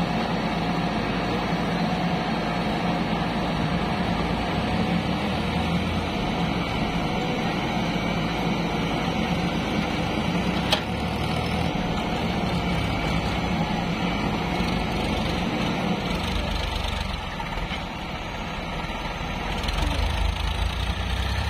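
An engine running steadily at idle, with one sharp click about halfway through.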